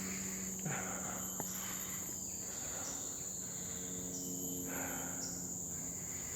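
Steady high-pitched drone of tropical forest insects, with a second insect call pulsing about once a second. A brief rustle and a small click come in the first second and a half.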